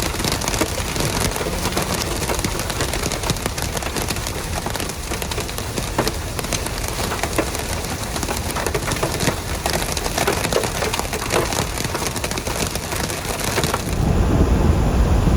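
Hail and rain pelting a vehicle in a supercell thunderstorm: a dense, constant clatter of impacts. About 14 seconds in it gives way to a deep rush of wind on the microphone.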